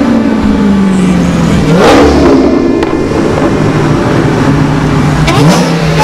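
Dodge Challenger V8 engines revving as the cars drive off, the revs rising sharply about two seconds in and again near the end.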